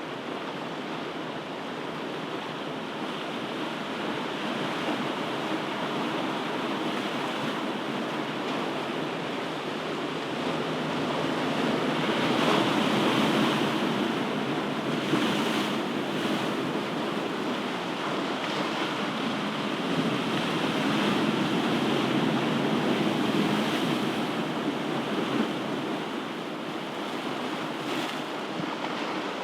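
Ocean surf: waves breaking and washing up the shore in a continuous rush, swelling and easing slowly, loudest about halfway through and again a little later.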